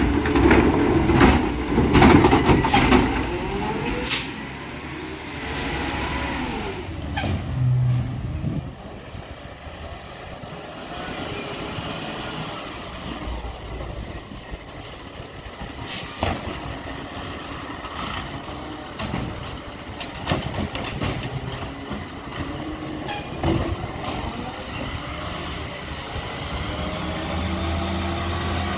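Freightliner 108SD side-loader garbage truck with a McNeilus ZR body working. The engine revs up and down several times, with loud clattering and knocks in the first few seconds and single sharp knocks about halfway through and again later.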